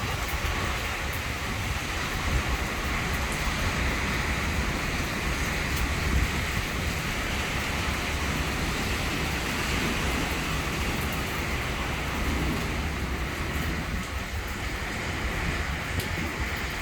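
Heavy thunderstorm rain pouring steadily, with strong wind buffeting the microphone in a constant low rumble.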